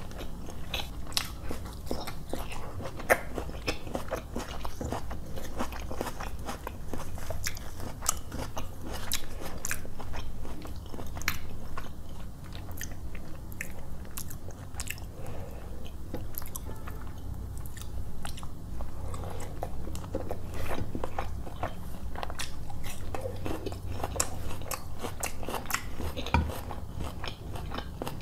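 Close-miked chewing and biting as a person eats roti and chicken curry with his fingers: a steady run of wet mouth clicks and smacks.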